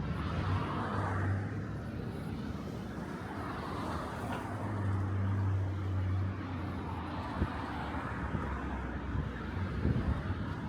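Low, steady hum of a motor vehicle engine on a residential street, swelling twice, over a light background of traffic noise. A few faint sharp clicks come in the second half.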